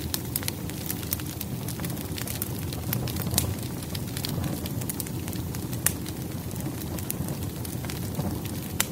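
Firewood burning in a fireplace: a steady low rumble of flames with frequent sharp crackles and pops at irregular intervals, the loudest pops about three and a half and six seconds in.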